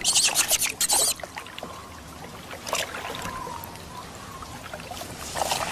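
Water splashing and trickling in a hot-spring pool: louder splashing in the first second, then a quieter steady trickle.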